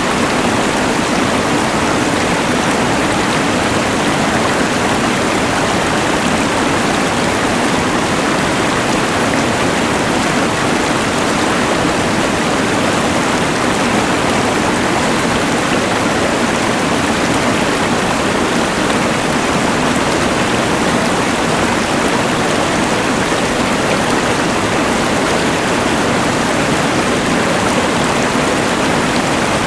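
Rushing mountain river mixed with the hiss of a LectroFan white noise machine: a steady, unbroken wash of water noise.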